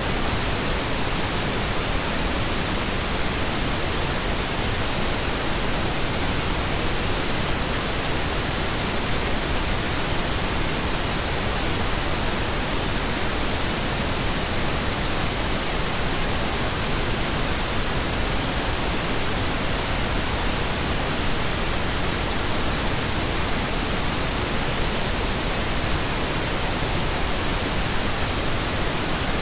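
Steady pink noise: an even, unchanging hiss spread across all pitches, made as a sleep sound.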